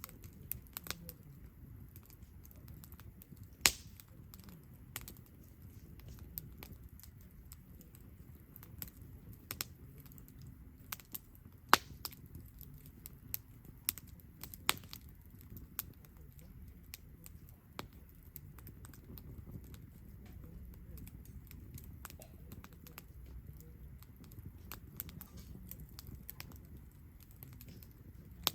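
Wood campfire crackling: irregular sharp pops and snaps over a low steady rumble, with two louder pops about 4 and 12 seconds in.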